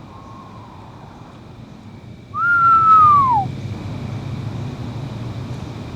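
A person whistling an imitation of an eastern screech owl's call: a faint steady note at first, then one loud clear whistle about two seconds in that rises slightly and then slides downward.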